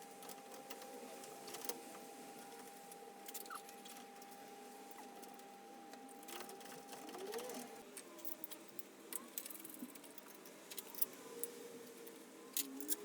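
Scattered light clicks and clinks of hand tools and engine parts being handled during engine reassembly. A faint steady whine runs underneath and stops about eight seconds in.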